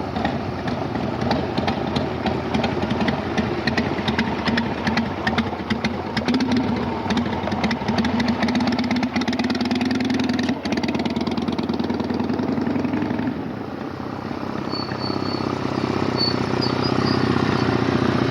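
Motorcycle engine running with a rapid, even firing beat. Its note holds higher through the middle, drops away about thirteen seconds in, then settles steady again.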